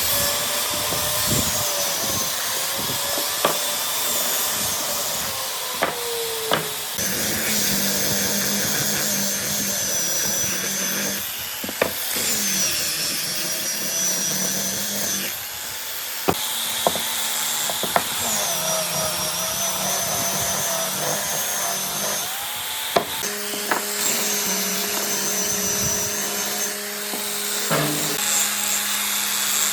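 Woodworking power tools cutting and sanding wood in a run of short segments. A motor whines high, its pitch dipping and recovering as it takes load, over a steady hiss, with occasional sharp knocks of wood being handled.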